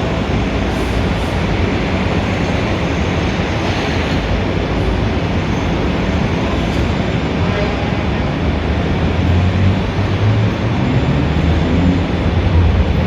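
Dense city street traffic: a steady roar of vehicles, with a deeper engine rumble swelling over the last few seconds.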